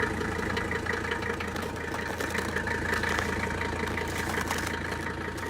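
Mercedes 300D's five-cylinder diesel engine idling steadily as it warms up after a cold start in freezing weather.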